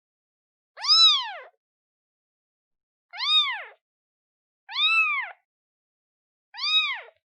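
A day-old newborn kitten meowing to call its mother: four short, high meows about two seconds apart, each rising then falling in pitch.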